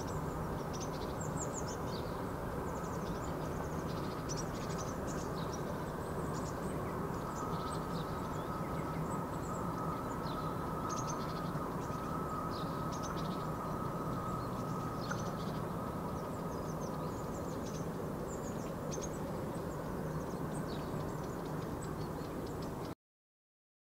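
Small birds chirping: many short, high chirps over a steady low background rumble. The sound cuts off suddenly near the end.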